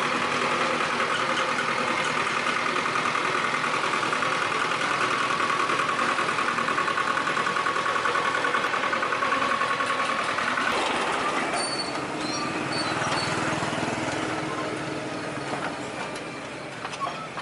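An engine running steadily at idle with a fine, even rhythm. About eleven seconds in the sound changes and then slowly fades.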